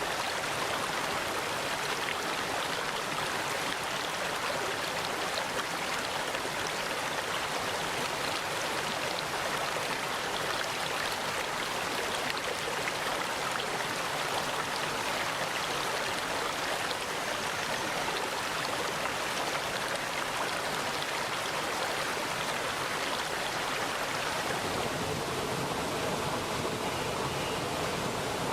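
Mountain valley stream flowing steadily, an even rushing of water. About 25 seconds in the sound turns deeper.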